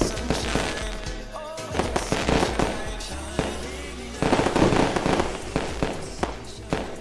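Fireworks bursting and crackling in a rapid string of sharp bangs, densest and loudest about four to five seconds in, over background music.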